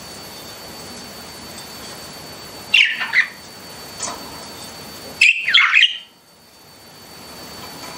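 Pet budgerigars chirping: a loud burst of chirps about three seconds in, a single faint chirp, then a longer loud burst after five seconds, over a steady background hiss with a faint high whine.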